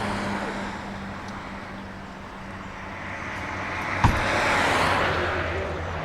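Motor vehicle noise with a steady low hum, swelling to a peak a little after the middle and easing off, with a sharp click about four seconds in.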